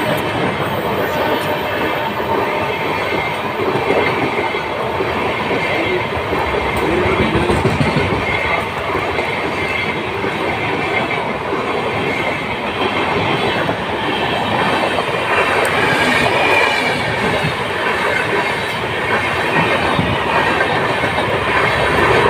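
Indian Railways passenger train's coaches running past at speed, a loud steady rumble with the wheels clattering over the rail joints.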